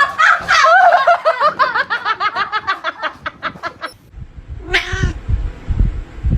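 A cat making a fast run of short, repeated yowling calls, about eight a second, for nearly four seconds. A single meow follows about five seconds in, over a few low thumps.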